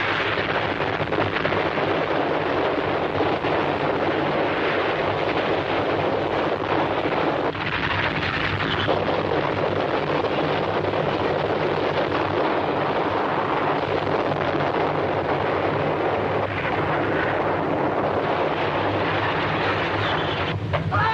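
Earthquake sound effect: a loud, continuous, heavy rumbling roar. Near the end a man screams, the cry falling in pitch.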